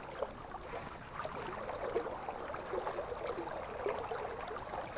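River water running, a steady babbling rush of current.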